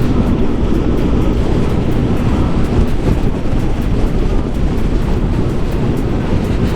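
Steady wind rush and road noise of a Yamaha Aerox motor scooter riding at speed, with the scooter's engine droning underneath.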